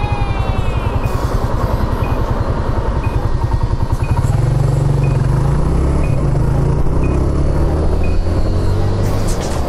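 Suzuki GN125H's air-cooled single-cylinder engine idling with an even pulse, then pulling away about four seconds in, its note rising as it accelerates. A short high beep repeats about once a second, and music comes in near the end.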